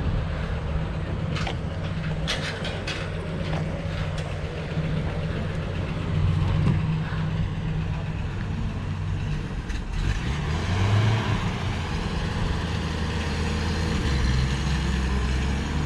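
Chevrolet Apache pickup truck's engine running as it drives away, a steady low note that shifts in pitch about ten seconds in, with a few light clicks in the first few seconds.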